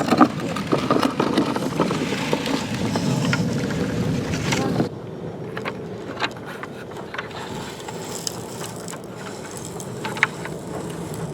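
Plastic toy construction vehicles scraping and digging through sand, a gritty scratching with small plastic clicks that stops abruptly about five seconds in, leaving only occasional clicks and knocks.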